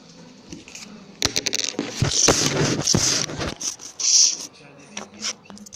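Close rustling and scraping with quick clicks, the sound of something being handled right by the microphone, loudest in the middle.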